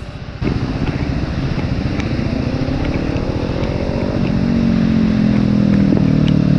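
Motorcycle engine running on the move, starting suddenly about half a second in, its pitch sliding up and down and growing louder toward the end.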